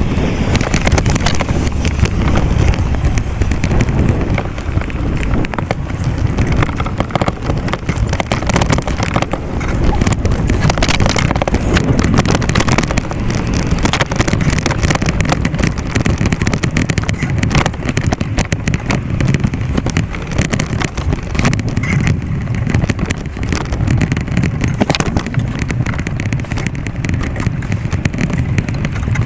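Wind buffeting the microphone of a camera carried on a moving bicycle, a loud, steady low rumble with frequent small knocks and rattles.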